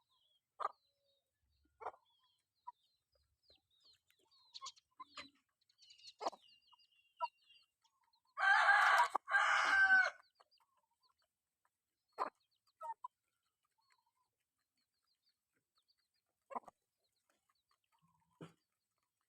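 Chickens foraging, giving short scattered clucks every second or two, with one loud, drawn-out call in two parts about halfway through.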